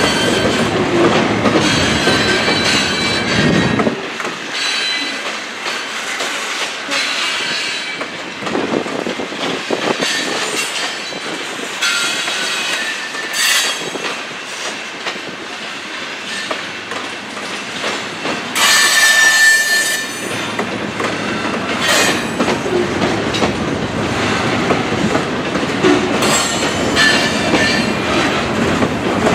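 Loaded covered-hopper grain cars of a freight train rolling through a grade crossing: steel wheels rumbling and clattering over the rails, with high flange squeals coming and going, the loudest about two-thirds of the way through.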